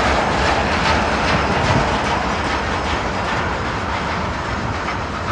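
Train behind a 2TE116 diesel locomotive rolling past, its wheels clacking over the rail joints with a low rumble, gradually getting quieter.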